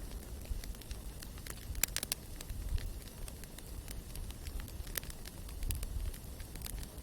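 Campfire burning, wood crackling and popping in irregular sharp snaps, with a quick cluster of the loudest pops about two seconds in, over a steady low rumble.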